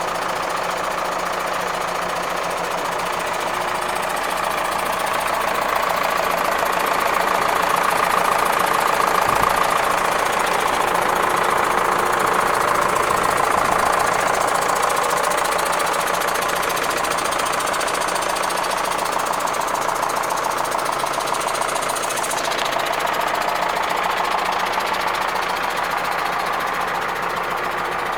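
Zetor Proxima 90 Plus tractor's diesel engine idling steadily, growing a little louder in the middle and then settling back.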